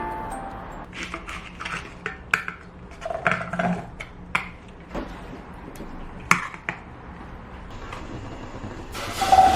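Kitchen sounds: a series of light knocks and clinks of dishes and utensils, a few with a short ring. A steady hiss starts near the end.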